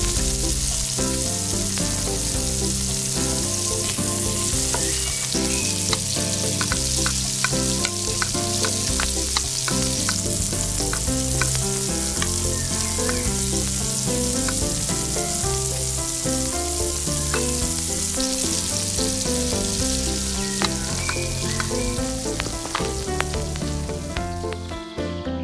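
Masala frying in a miniature steel pot over a tiny burner: a steady sizzle with a small spoon stirring and repeatedly tapping and scraping the pot. The sizzle fades near the end.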